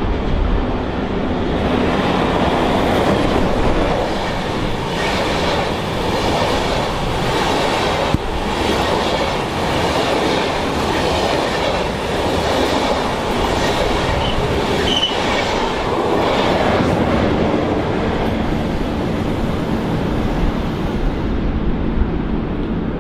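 Train passing close by, its wheels clattering over the rail joints in a steady run of beats, with a brief high wheel squeal partway through; the clatter fades away near the end.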